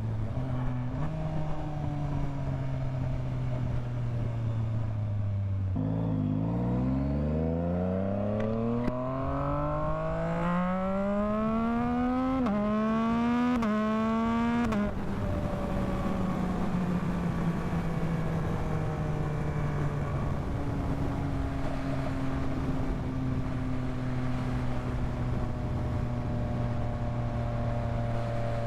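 Yamaha MT-09's three-cylinder engine under way: it runs steady, the revs dip about six seconds in, then climb hard under acceleration. Three quick upshifts follow in about two seconds, each a sudden drop in pitch, and the engine then settles into a steady cruise with the revs slowly easing off.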